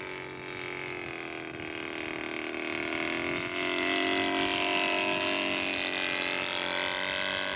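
Saito 270 engine of a 1/3-scale Nieuport 17 radio-control model running steadily on a low flyby, growing louder toward the middle as it passes and easing off slightly near the end.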